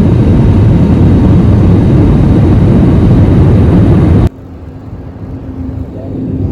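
Steady engine and airflow noise inside an airliner cabin in flight, loud and even. About four seconds in it cuts off abruptly to a much quieter cabin hum with a faint steady low tone, which grows somewhat louder near the end.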